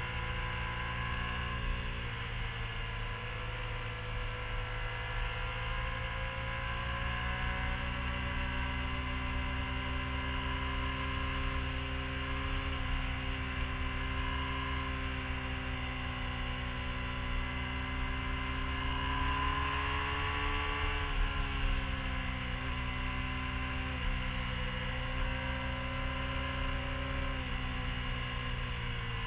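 Motorcycle engine heard from on board while riding, its pitch rising and falling gently with the throttle through the curves, climbing about twenty seconds in and dropping off sharply a second later. A low wind and road rumble runs underneath.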